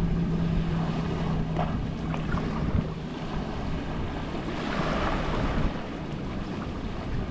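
Gentle Mediterranean waves lapping on the shore, one wash swelling and falling back about five seconds in. A low steady hum runs underneath and stops about three seconds in.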